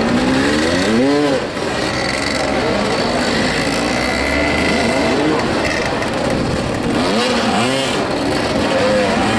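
Motoball motorcycles' engines running and revving during play, their pitch swelling up and falling back about a second in and again around seven to eight seconds in, over a steady engine drone.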